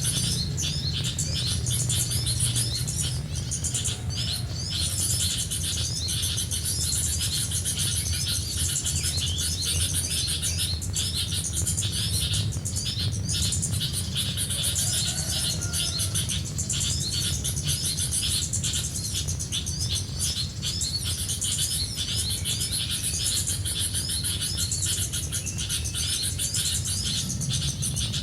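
Many small birds chirping and twittering, with rapid short chirps overlapping continuously over a steady low rumble.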